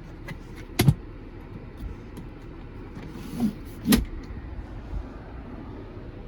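Two sharp knocks about three seconds apart inside the car cabin, from the center console storage being handled, over a low steady hum.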